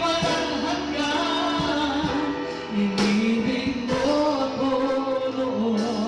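Worship song performed live: a singer holding long, sliding notes over band accompaniment.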